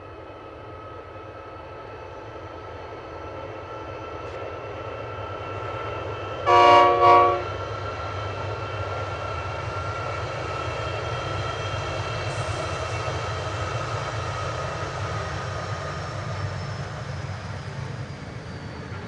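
Two Pacific National diesel locomotives with V16 GE 7FDL-16 prime movers hauling a grain train up a gradient, their engine drone growing louder as they approach. About six and a half seconds in the locomotive horn gives two short blasts, the loudest sound. The hopper wagons then roll past with a steady rumble.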